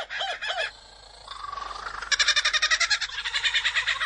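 Superb lyrebird singing a medley of mimicked bird calls. A fast rattling run of repeated notes is followed by a short whistled note a little over a second in, then another long rapid rattling run.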